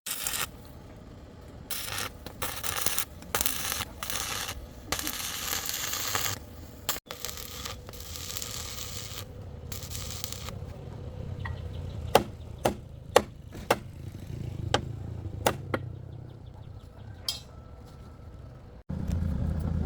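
Repeated scraping strokes, then about seven sharp knocks, each under a second apart, a little past the middle.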